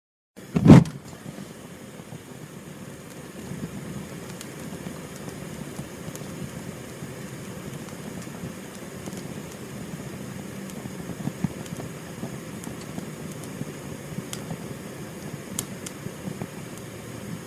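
Fire burning steadily with a low rumble and occasional sharp crackles, starting with a short loud burst just under a second in.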